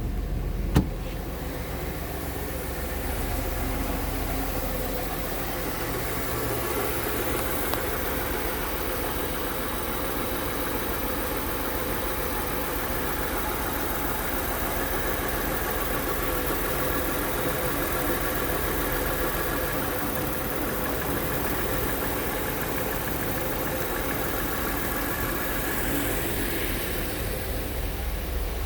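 1999 Dodge Stratus 2.5 L V6 engine idling steadily, with one sharp click about a second in.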